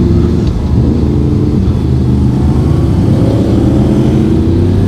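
Motorcycle engine running under way, with wind and road noise. Its pitch dips a little, then climbs steadily over the last couple of seconds as the bike accelerates.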